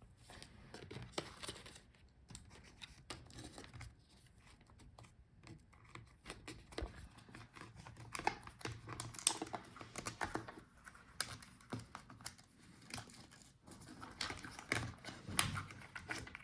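Small plastic clicks, taps and rustles of a Lenovo ThinkPad P1 Gen 5 laptop battery being worked loose and lifted out of the chassis, with its cables being handled.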